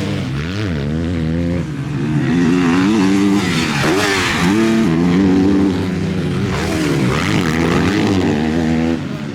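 Several MX2 motocross bikes racing, their engines revving up and down with pitch rising and falling over and over as riders work the throttle and shift through the track sections.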